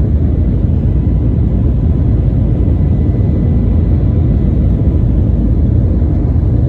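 Steady low rumble of an airliner's engines and airflow heard inside the passenger cabin while the plane climbs after takeoff, with faint steady tones above the rumble.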